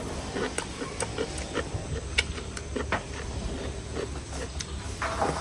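A man chewing a mouthful of fatty roast pork belly close to the microphone: irregular wet smacking and lip sounds with a few sharp clicks.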